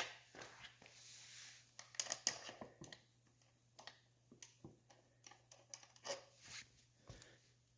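Faint, irregular clicks and scrapes of hand tools and metal brake parts being handled and fitted, with sharper clicks about two seconds in, over a steady low hum.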